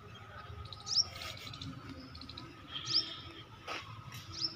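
A bird chirping: three short, high chirps, one about every one and a half to two seconds.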